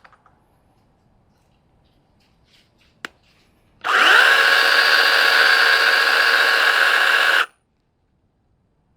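Small cordless electric chainsaw run on the trigger: its motor spins up quickly with a rising whine, runs steadily with the chain for about three and a half seconds, then cuts off suddenly. A single click comes shortly before it starts.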